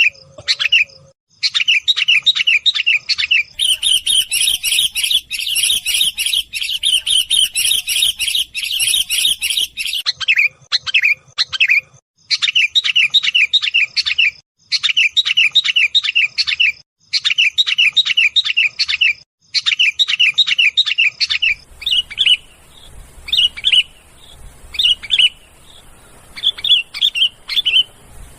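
Sooty-headed bulbul (kutilang) noisy, excited calling: fast runs of sharp chattering chirps in bursts of about two seconds with short gaps. The calls are densest in the first third and thin to scattered single notes over a faint hiss in the last quarter.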